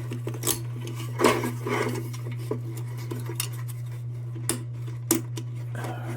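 Light metallic clinks and taps from tin lantern parts being handled and fitted: a quick cluster about a second in, then single clicks every second or so, over a steady low hum.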